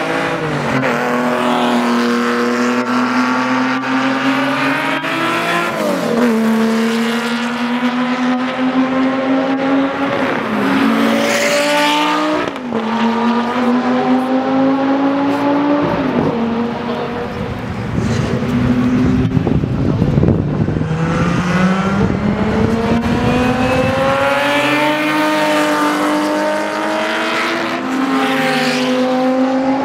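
Lamborghini Miura P400 S's V12 engine accelerating hard through the gears. Its pitch climbs and then drops at each gear change, several times over, with another long rising pull in the second half.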